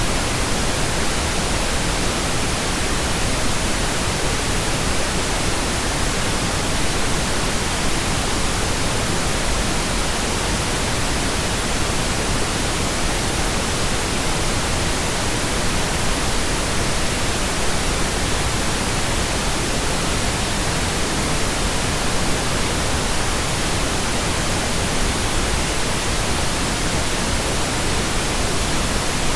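Steady computer-generated pink noise: an even, unchanging hiss spread across the whole range, with no breaks or changes.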